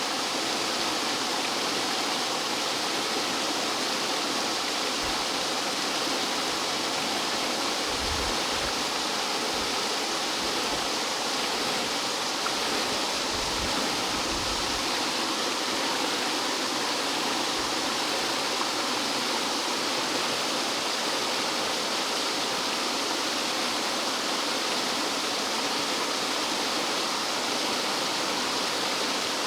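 Rough mountain-valley stream water rushing and cascading over rocks like a small waterfall: a steady, dense rush of water.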